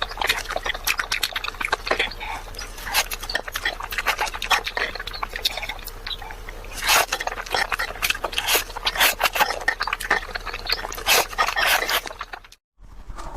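Close-miked eating sounds: fast, wet chewing and smacking of the lips and mouth, dense with small clicks. The sound cuts out to silence for a moment near the end.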